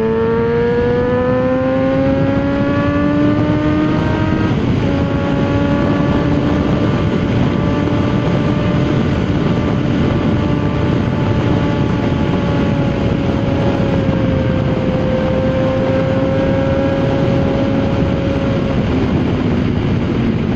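Yamaha XJ6 600 inline-four running through a Jeskap aftermarket exhaust under way. It rises in pitch while accelerating, changes gear about four and a half seconds in, then holds a steady cruising note and eases off near the end, over a steady rushing noise.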